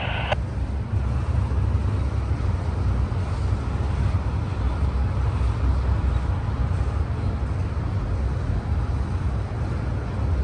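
Diesel locomotives running, a steady low rumble, with a scanner radio's squelch clicking off just after the start.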